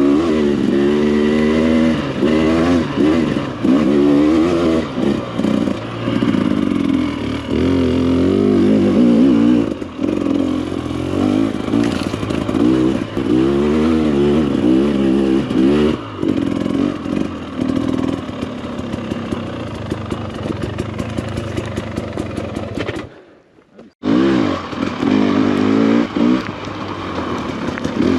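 Enduro dirt bike engine revving up and down over and over as it is ridden along a trail, with a steadier stretch in the middle. The engine sound drops out for about a second near the end, then comes back revving.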